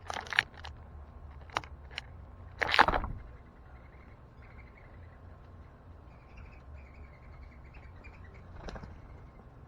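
Birds at a backyard feeder: a few sharp taps in the first two seconds, a louder burst about three seconds in and a smaller one near the end, with faint bird chirping in the background.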